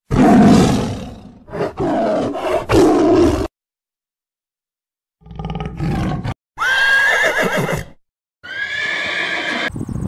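A tiger roaring and growling for about three and a half seconds. After a silent gap, a horse whinnies twice in high, wavering calls.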